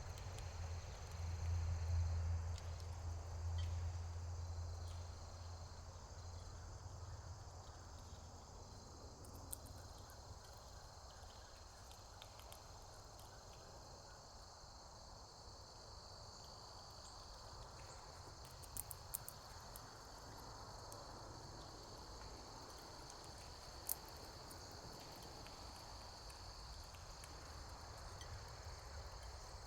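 Faint, steady insect chorus: a continuous high trill that never breaks, with a low rumble in the first few seconds and a few soft clicks.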